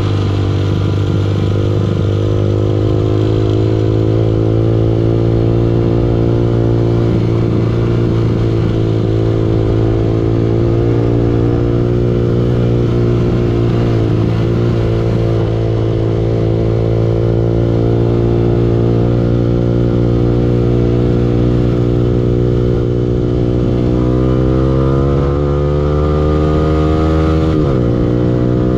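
Yamaha R15 V2 motorcycle's single-cylinder four-stroke engine running steadily under way. Near the end its pitch climbs for a few seconds, then drops suddenly.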